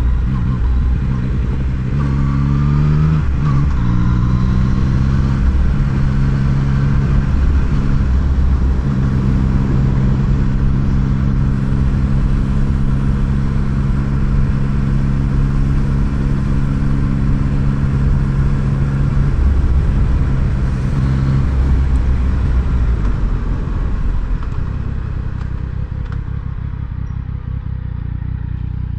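Yamaha MT-09 three-cylinder motorcycle engine running under way, its revs changing in the first few seconds, then holding a steady note for about ten seconds before easing off near the end, over a constant low rumble.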